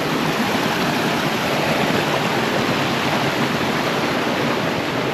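Stream water rushing steadily, a loud and even wash of noise close to the microphone.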